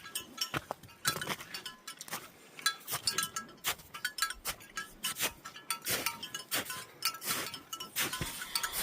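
Bear bells jingling in quick, irregular clinks that keep ringing briefly, shaken by a hiker's walking.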